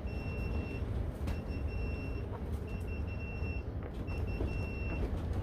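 Strong wind buffeting the greenhouse, a steady low rumble, with an alarm beeping over it in repeated high beeps about a second long with short gaps.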